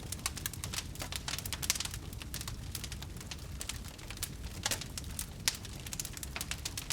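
Wood fire burning, crackling with quick irregular pops and snaps over a steady low rumble.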